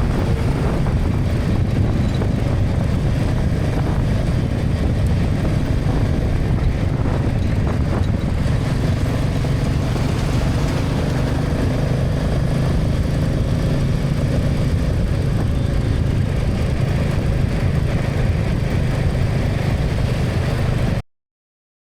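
Motorcycle riding through highway traffic: steady engine and road noise, cutting off abruptly near the end.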